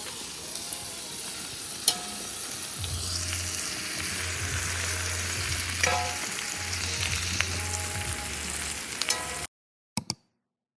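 Smoked duck, whole garlic cloves and chives frying in a pan, a steady sizzle with a few sharp clicks of a utensil against the pan. The sizzle cuts off suddenly near the end.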